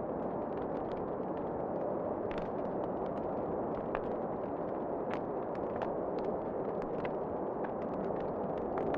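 Wood fire crackling in a fireplace, with many small irregular pops and snaps over a steady rushing wind.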